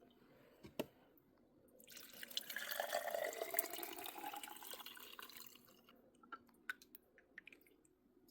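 Liquid being poured into a vessel for a few seconds, starting about two seconds in, with a few small clicks and taps before and after.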